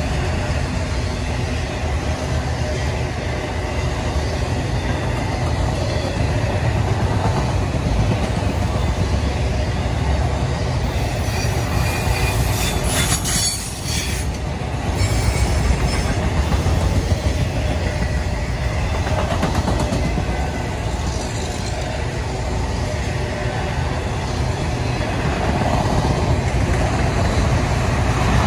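Autorack cars of a freight train rolling past close by: a steady rumble and rattle of steel wheels on the rails. About halfway through comes a brief high-pitched wheel squeal.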